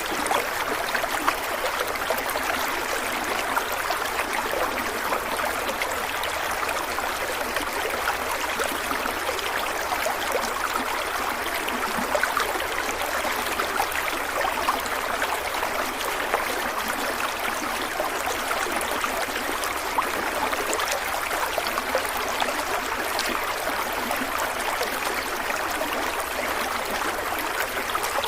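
A stream of water running steadily, an even rushing and trickling flow with small splashes dotted through it.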